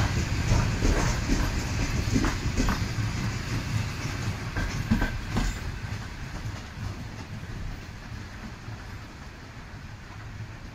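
Electric commuter train rolling past close by, its wheels clicking over the rail joints above a low rumble. The clicks stop about five seconds in and the sound fades away.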